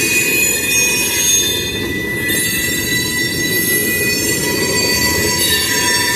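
Freight train cars rolling through a grade crossing, a steady rumble with wheels squealing on the rails in several sustained high-pitched tones.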